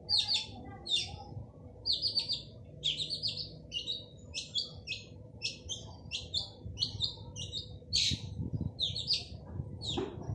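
Male long-tailed shrike singing: a rapid, unbroken run of short, high, harsh chirps, about two a second, over a faint steady hum.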